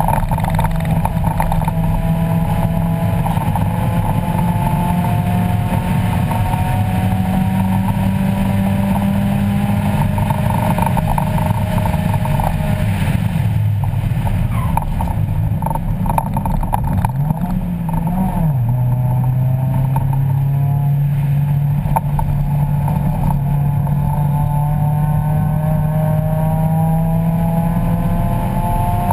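1994 Mazda Miata race car's 1.8-litre four-cylinder engine heard from inside the cockpit, pulling under load with the revs climbing slowly. About halfway through the revs fall away, a quick rev blip follows a few seconds later, and the engine pulls again from lower revs, over steady road and wind noise.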